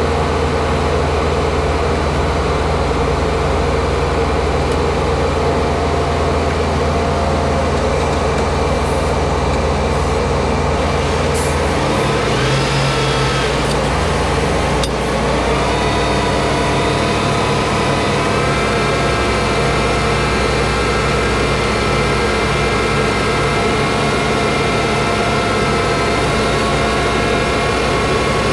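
Winch truck's diesel engine running steadily. Its pitch changes about twelve seconds in and climbs again a few seconds later.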